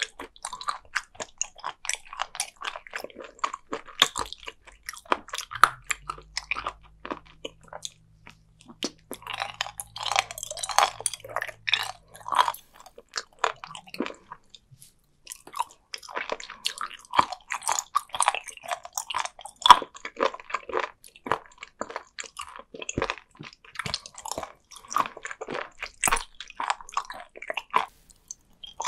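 Close-miked chewing of firm raw sea cucumber: dense, irregular crunchy crackles as the hard flesh is bitten and chewed, with a short pause about halfway through.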